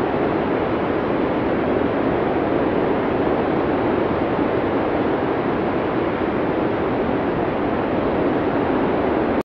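Blizzard wind from a classic Cinesound arctic storm sound effect: a steady, even rush of wind noise, deep rather than hissy, with no gusts standing out.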